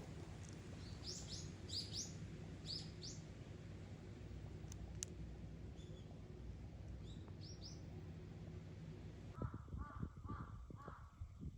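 Small birds chirping in quick, high, rising calls, then a crow cawing four times in quick succession near the end.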